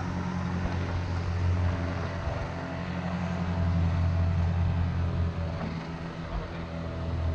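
Ultralight aircraft engine running steadily, a low even hum that swells and eases slightly.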